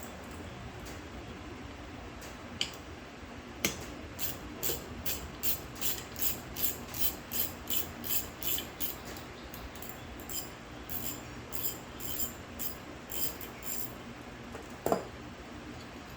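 Hand-tool work on a carburetor: a quick, regular series of mechanical clicks, about three a second, in two runs, with a few single knocks and one sharper knock near the end.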